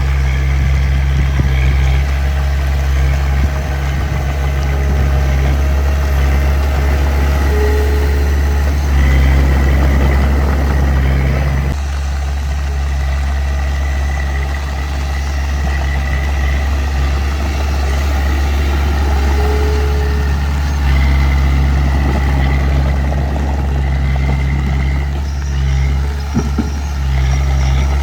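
Heavy diesel engine of earthmoving machinery running steadily, its note stepping up and down with load a few times.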